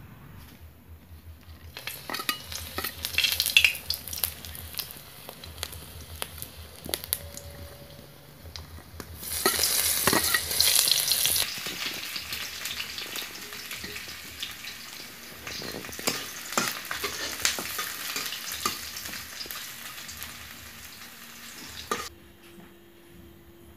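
Snail (ghungi) meat frying in hot oil in a pan and being stirred, with a steady sizzle and scattered clicks and scrapes of the spoon. The sizzle swells loudly for about two seconds near the middle and cuts off shortly before the end.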